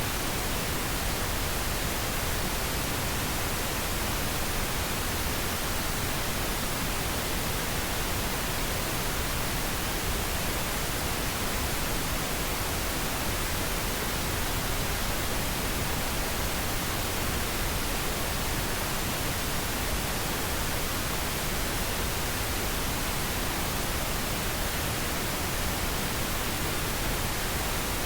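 Steady white-noise track: an even hiss with no changes, used as a background noise bed.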